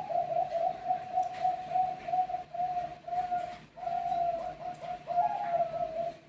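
Zebra dove (Bangkok perkutut) song: a fast run of short, evenly repeated cooing notes, about three a second, with two brief breaks.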